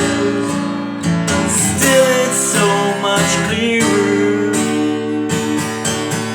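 Acoustic guitar strummed steadily through an instrumental passage between sung lines of a slow song.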